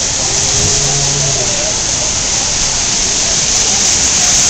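Heavy rain falling, a loud, steady hiss, with faint voices in the background during the first second or so.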